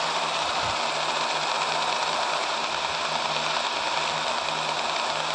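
Steady radio static hiss from an SDR receiver tuned off-channel on the 2-meter ham band, with a faint low hum under it.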